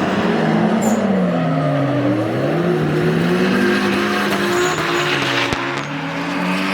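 A drifting Toyota Chaser's 1JZ inline-six engine revs up and down through a slide, with tire squeal over it.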